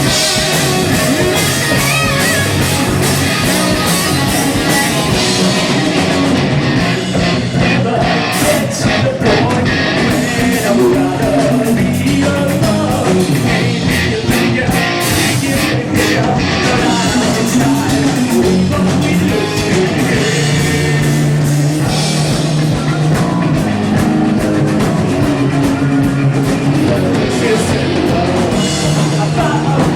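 Live rock band playing, with electric guitar, drum kit and singing.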